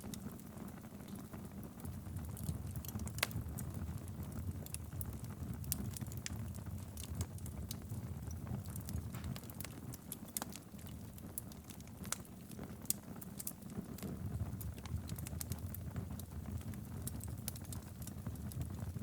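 Wood fire burning in a fireplace, a steady low rumble with irregular sharp crackles and pops throughout.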